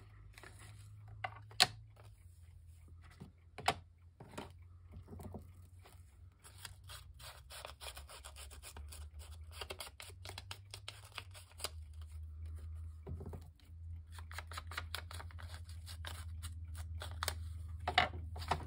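Scissors cutting paper, with crisp rapid snips and rustling of the paper, and a few sharp taps, over a low steady hum.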